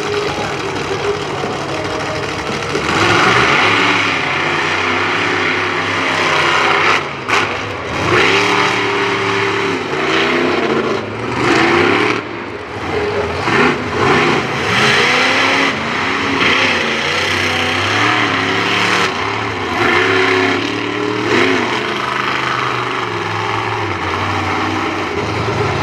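Monster truck engine revving hard again and again, the pitch climbing and dropping in quick swings.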